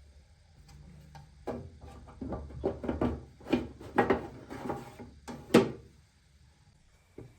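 Household items being handled and set down, a run of light knocks and clatters with the sharpest knock about five and a half seconds in, then quieter apart from one small knock near the end.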